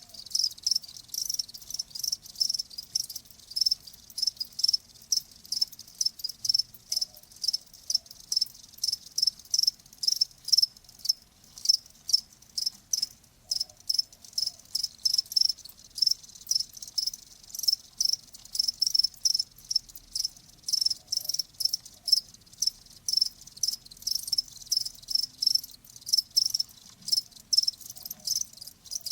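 Cricket chirping in a steady, even rhythm, about two to three high-pitched chirps a second.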